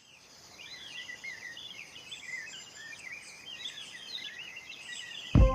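Many birds chirping and warbling together over a steady high drone, fading in at the start. A song with a thumping drum beat comes in near the end.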